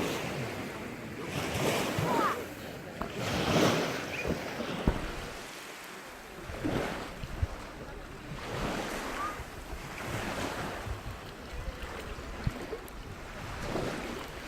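Sea waves washing onto the shore, the surf swelling and fading again and again, with wind buffeting the microphone.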